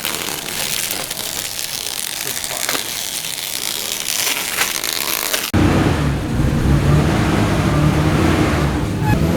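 Masking film and tape being torn and crinkled off a car's fresh paint. After an abrupt cut a little over halfway through, a car engine runs loudly and steadily.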